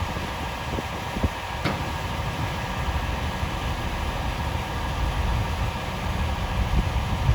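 Snow-removal machinery running steadily, with strong wind buffeting the microphone in uneven low gusts. A single sharp click comes about a second and a half in.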